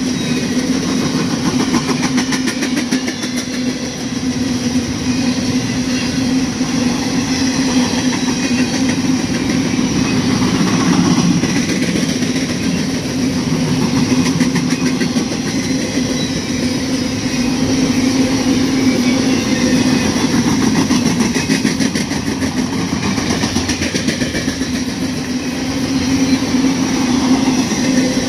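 Empty intermodal well cars of a freight train rolling past: a steady, unbroken noise of steel wheels on rail and rattling car bodies.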